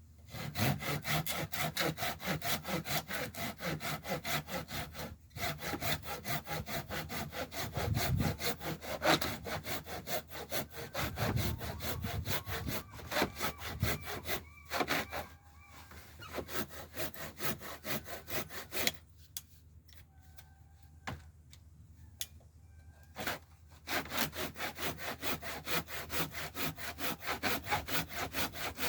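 Handsaw cutting scrap wood with fast, even back-and-forth strokes, about four a second. There are a few short pauses and a longer lull past the middle before the sawing resumes.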